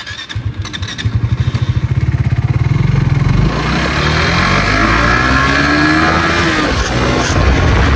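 Motorcycle engine starting up with a fast pulsing beat, then accelerating with a rising pitch from about three and a half seconds in.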